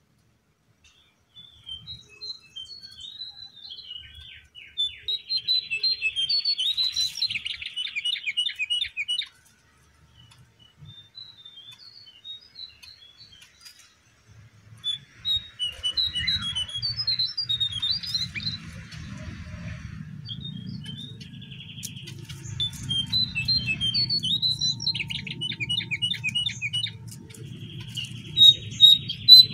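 Lesser shortwing (cingcoang coklat) singing: phrase after phrase of quick, high twittering notes with short pauses between them. A low hum runs underneath from about halfway.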